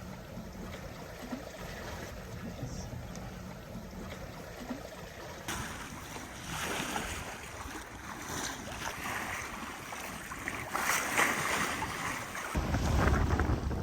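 Sailboat under way at sea: water rushing and splashing along the hull with wind. About five seconds in, the wash of water grows louder and hissier, and near the end heavy wind buffets the microphone.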